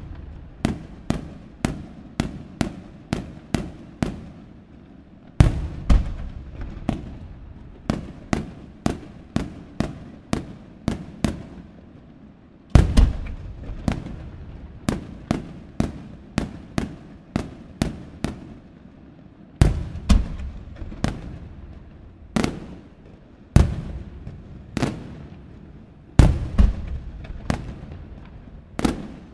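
Aerial firework shells bursting: a deep boom every several seconds, each followed by a quick run of sharp cracks, two or three a second.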